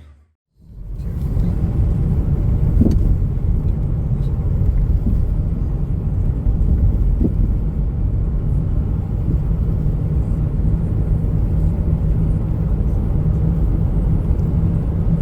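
Steady low rumble of a car driving: road and engine noise, starting just after a brief silence and cutting off at the end.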